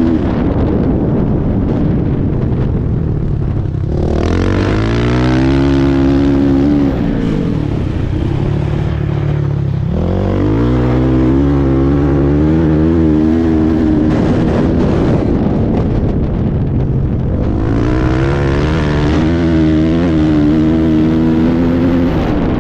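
Dirt bike engine running hard under throttle, its pitch climbing as it accelerates about four, ten and seventeen seconds in and falling back in between.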